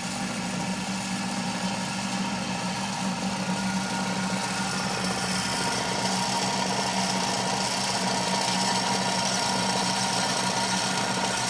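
Drill press running steadily, its bit drilling into steel angle iron: a continuous motor hum, with a higher metallic whine building from about halfway through.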